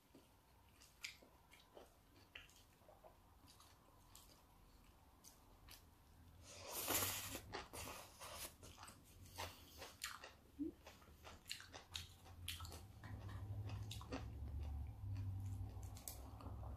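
Close-up mouth sounds of someone chewing raw salmon sashimi: soft wet clicks and smacks, with one louder burst of chewing about seven seconds in.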